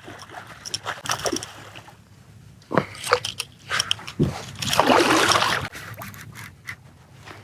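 Water splashing and sloshing in irregular bursts beside a kayak with a hooked redfish on the line, loudest about five seconds in, with scattered sharp clicks.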